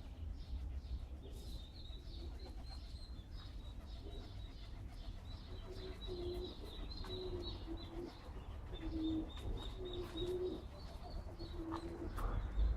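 Pigeon cooing in short repeated phrases, starting about halfway through, over steady high chirping of small birds. Wind rumbles on the microphone.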